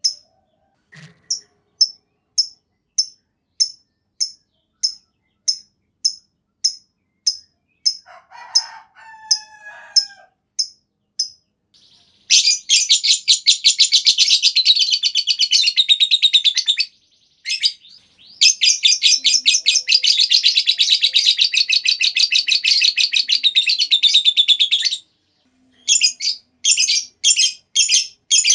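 Lovebird singing: short high chirps repeated about twice a second, then two long, rapid chattering trills, the long 'ngekek' song, lasting about five and seven seconds, followed by short choppy bursts near the end.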